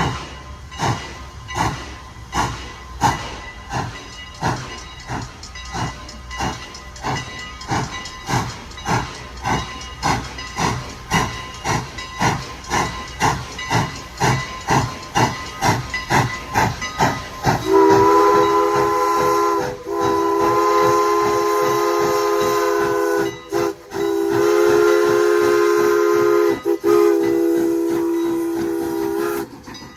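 Steam locomotive working hard, its exhaust chuffing at about two beats a second and quickening slightly. About two-thirds of the way in, its chime steam whistle sounds four long blasts.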